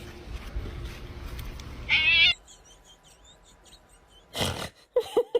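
A domestic cat gives one short, loud meow with a wavering, quavering pitch about two seconds in. A brief rush of noise follows later.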